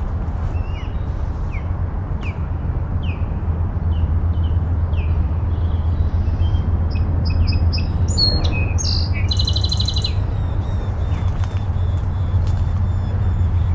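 Wild songbirds calling: a run of short down-slurred chirps, about two a second, for the first half, then a mix of chirps and a buzzy trill a little past the middle. Under it runs a steady low rumble.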